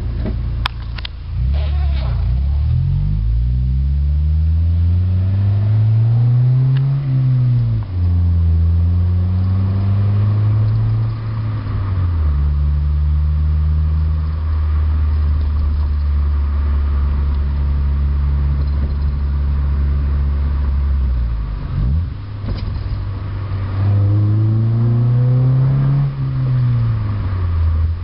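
1991 Honda Accord's F22A1 four-cylinder engine and exhaust pulling through the gears. The note rises under acceleration and drops sharply at gear changes about 8 and 26 seconds in, with a steady cruise from about 12 to 21 seconds.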